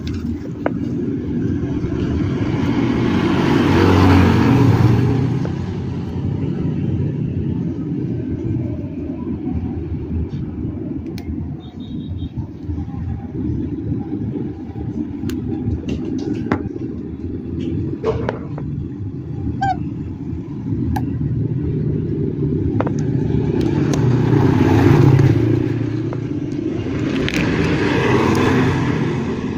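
Steady low rumble of passing motor traffic, swelling and fading about three times, with a few light clicks and taps in between.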